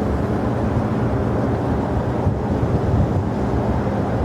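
Jet airliner engine noise, a steady low rumble, with wind noise on the microphone.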